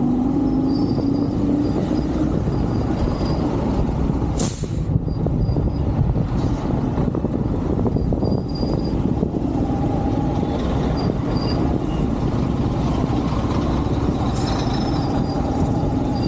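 Motorcycle engine running while riding, under a steady rush of wind and road noise, with a short sharp noise about four and a half seconds in.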